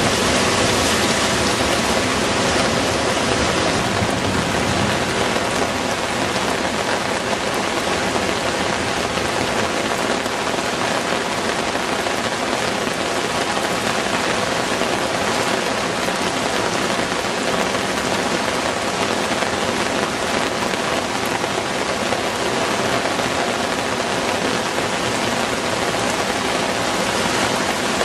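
Heavy rain falling steadily, a dense, even hiss of rain on surfaces. It is slightly heavier for the first few seconds.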